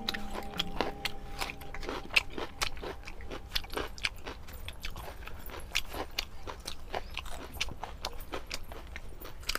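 Close-miked chewing and wet mouth clicks of people eating fried fish, with irregular crisp clicks a few times a second.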